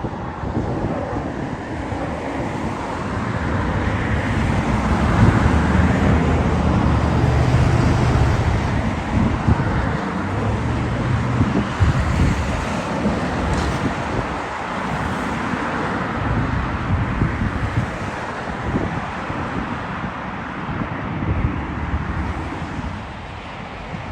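Jet airliner engines passing, a rumble that swells to its loudest about a quarter of the way in and then slowly fades, with wind buffeting the microphone.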